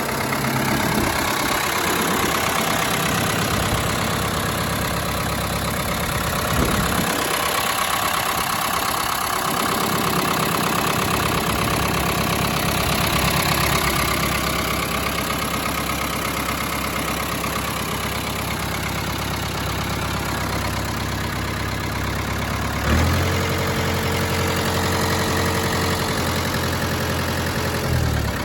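1973 Ford 7000 tractor's diesel engine running at a steady idle. The engine note changes abruptly about two-thirds of the way through, settling into a steadier, deeper hum.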